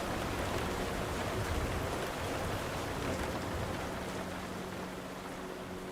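Steady rain falling, slowly fading, with a faint steady low hum underneath.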